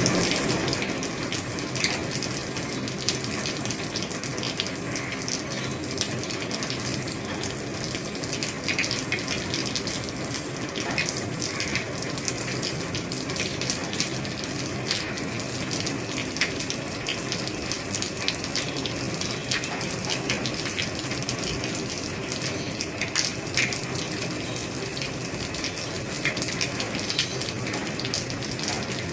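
Steady rain falling on an old roof: a constant hiss with many separate drops ticking sharply on top.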